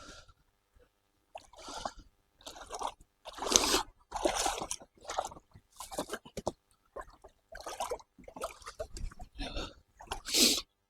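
Water splashing in short irregular bursts, about one or two a second, as a kayak paddle dips into the river.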